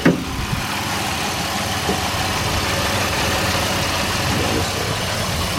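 2001 Pontiac Firebird's engine idling steadily, with the steering wheel held turned so the power steering system is under pressure. A short knock sounds right at the start.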